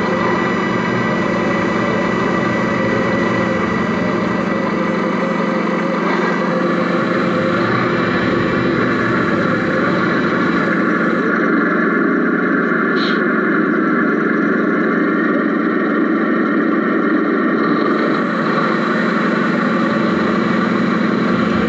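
Radio-controlled Mercedes Actros SLT model truck running, heard from inside its cab: a steady engine-like hum with several even tones over it, and a brief high tick about midway.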